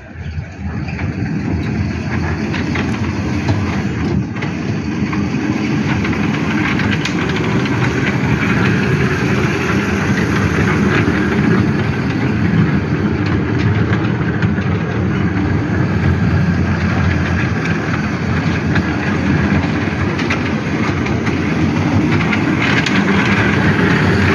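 Miniature train running on its track with a steady rumble that sets in sharply, builds over the first couple of seconds and then grows slowly louder.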